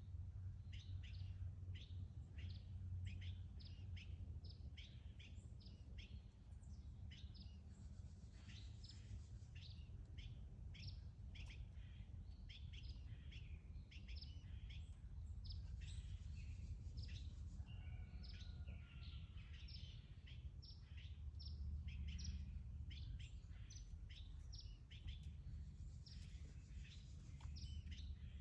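Small birds chirping: many short, irregular, overlapping chirps and calls over a faint steady low rumble of background noise.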